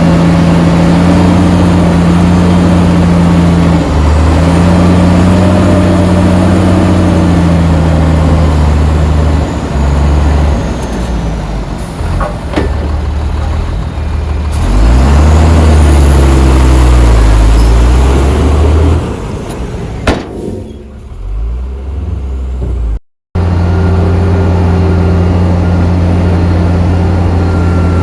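Heavy diesel engine of earthmoving machinery running hard, its pitch rising and falling as it revs up and down under load midway. It eases off for a few seconds, cuts out completely for a moment, then runs steadily again.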